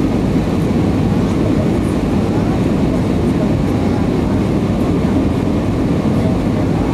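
Steady airliner cabin noise inside an Airbus A319 in flight: a dense, even low rumble of engines and rushing air.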